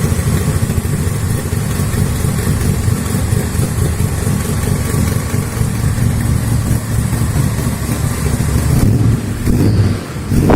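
V8 engine idling with a deep, steady rumble; near the end it dips and a quick rev begins.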